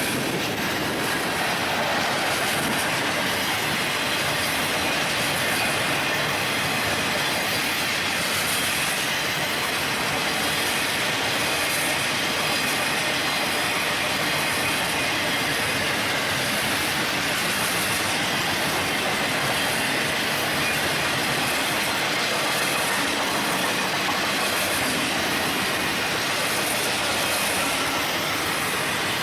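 A train's cars rolling past without a break: a steady rumble and rattle of steel wheels on rail, with a high hiss that pulses about once a second.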